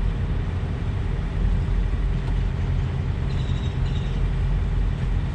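Steady low rumble of an idling engine, with an even hum over it.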